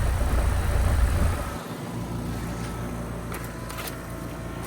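Trane XR14 heat pump outdoor unit running in heat mode just after startup: a steady low hum from its Alliance scroll compressor and fan. A louder low rumble fades out about a second and a half in, leaving the steadier hum.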